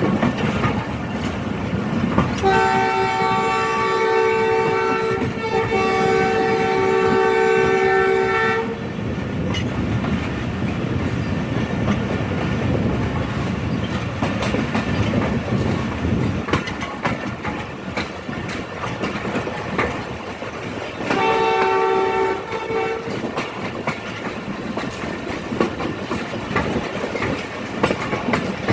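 Locomotive horn of a passenger train sounding a long two-tone blast, briefly broken about five seconds in, then a shorter blast about twenty seconds later. Throughout, the train's wheels clack over the rail joints as it moves.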